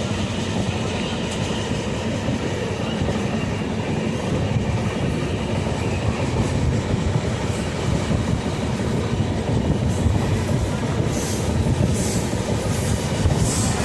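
Steady low rumble of a moving vehicle, with a run of evenly spaced high clicks, about two a second, in the last few seconds.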